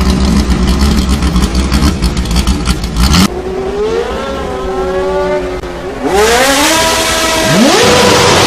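High-performance car engines at full throttle: a harsh, rasping engine sound cuts off abruptly about three seconds in, then an engine climbs in pitch and drops back through several gear changes and holds a high, steady note near the end.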